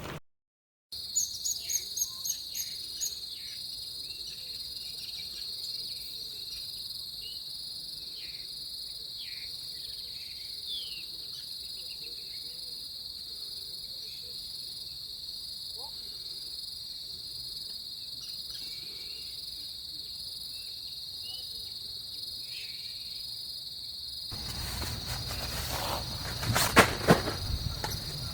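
Steady high-pitched insect chorus holding one even note. A few quick clicks sound just after it begins, and in the last few seconds a louder rustling comes in with a couple of sharp knocks.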